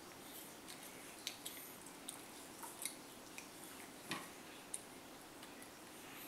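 A toddler gnawing and chewing on a whole unpeeled apple: faint, scattered small clicks and wet mouth sounds of teeth scraping the skin, the strongest about four seconds in.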